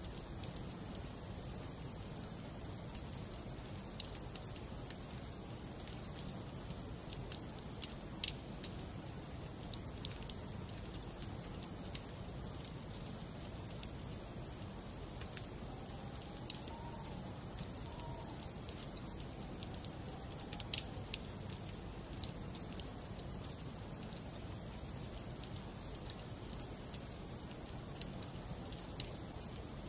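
Wood fire burning in a fireplace: a steady low rush with scattered sharp crackles and pops from the burning logs. A faint wavering whistle comes in briefly around the middle.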